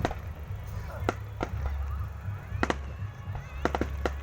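Fireworks going off: about eight sharp cracks, some in quick pairs, over a steady low rumble.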